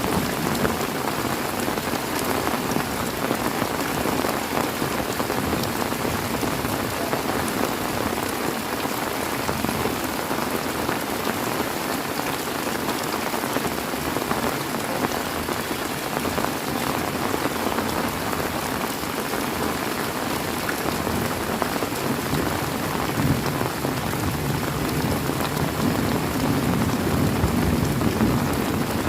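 Heavy rain falling steadily, with a low rumble of thunder building near the end.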